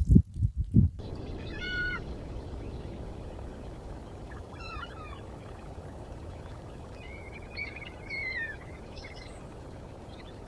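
Steady wind noise with an animal giving three short high calls. There are a few heavy thumps in the first second.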